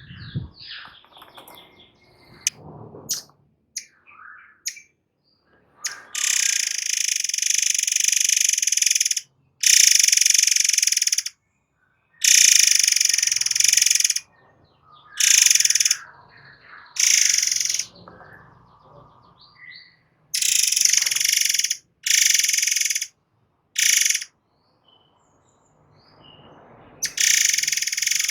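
Forktail (murai air) giving long, harsh hissing screeches in repeated bursts of half a second to three seconds, about nine in all, with soft short chirps between them.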